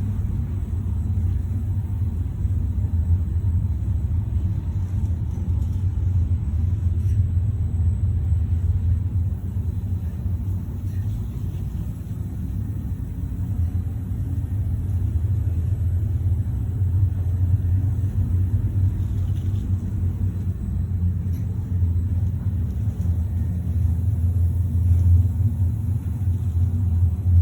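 Steady low rumble, even and unchanging, with no distinct knocks or events.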